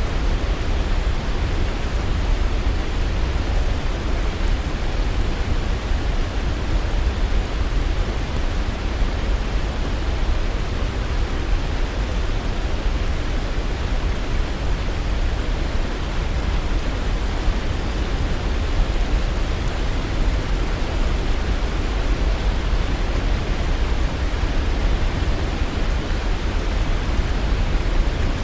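Waterfall's water rushing in a steady, unbroken roar, heavy in the low end.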